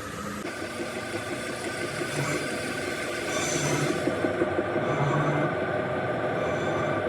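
Metalworking machinery running steadily, a continuous mechanical rumble with a faint whine, growing a little louder about three seconds in.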